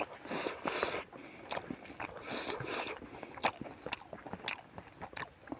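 Close-up mouth sounds of a man chewing a mouthful of rice and smoked pork: a run of irregular wet smacks and clicks.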